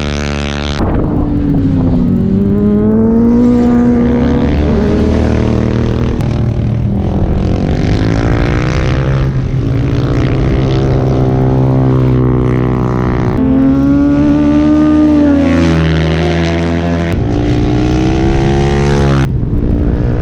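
Superbike engines running hard, their pitch climbing and falling again and again as they rev and shift, over a steady low drone, with a few abrupt changes in the sound.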